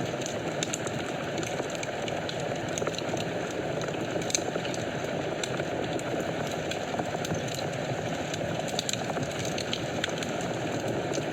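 Wood fire burning in a fireplace: a steady low rush of flames with frequent small, irregular crackles and pops.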